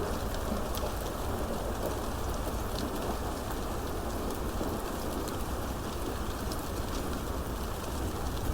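Steady rainfall, with many separate drops ticking on a hard surface.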